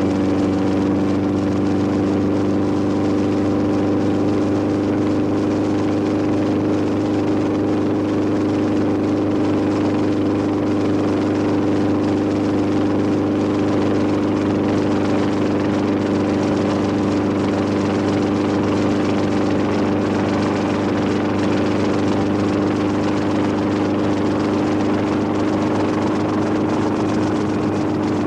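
Steady engine drone, a constant pitched hum with several overtones, holding even throughout.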